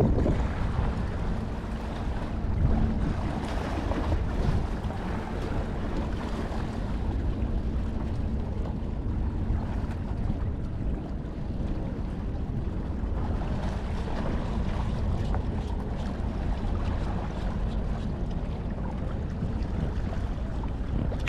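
Steady wind buffeting the microphone over the wash of harbour water, with a faint low hum underneath.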